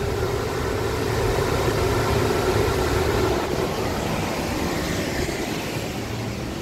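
Oil-fed garage stove running, its blower fan and burner giving a steady rushing noise with a hum.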